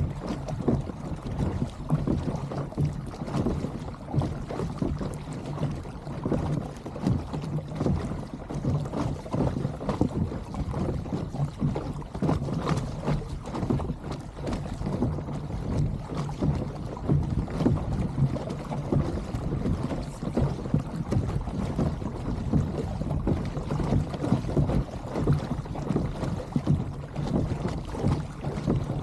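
Water sloshing and lapping against a kayak hull at sea, with wind buffeting the microphone in an uneven, choppy rush.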